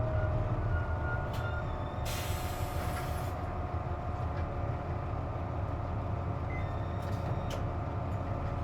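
Inside a Hino KC-JP250NTN route bus under way: steady engine hum with a whine over it, the abnormal noise that comes with the air conditioning running. About two seconds in a short air hiss lasts about a second, and a few light clicks follow later.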